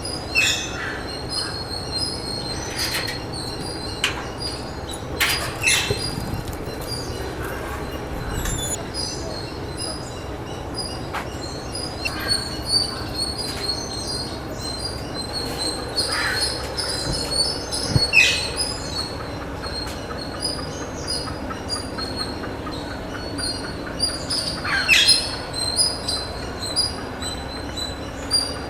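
Birds calling around a park lake: many short high chirps over a steady background hiss, with several loud calls that each drop sharply in pitch, scattered every few seconds.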